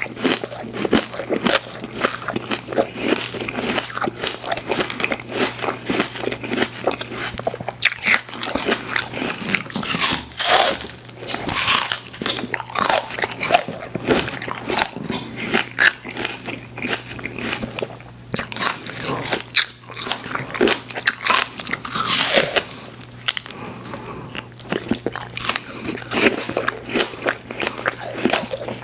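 Close-miked chewing and biting of sweets: a dense, irregular run of crunchy, crackly and wet mouth sounds, several a second.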